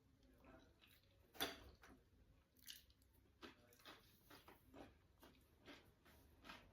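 A person chewing and biting food close up, with a sharper bite or crunch about a second and a half in and then steady chewing strokes roughly every half second.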